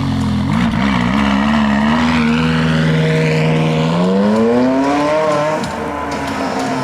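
Supercar engine running loud under acceleration: the engine note holds fairly steady, then rises quickly in pitch about four seconds in before easing back down.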